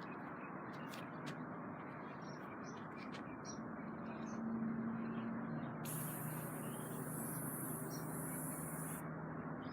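Aerosol spray paint can hissing in one steady burst of about three seconds, starting about six seconds in, over a steady low background noise. Faint short chirps and ticks come in the first half.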